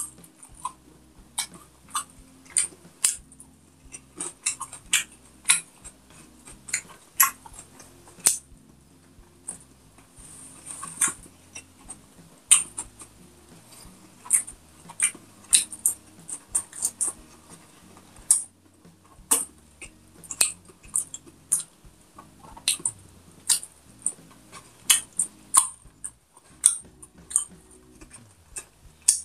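Close-miked eating sounds: wet chewing and lip smacks, several sharp clicks a second, from someone eating rice and pork by hand. Faint background music runs underneath.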